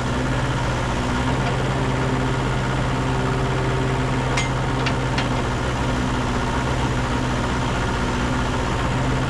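The diesel engine of a 1989 Kubota KH040 mini excavator idling steadily, with a couple of faint clicks about halfway through.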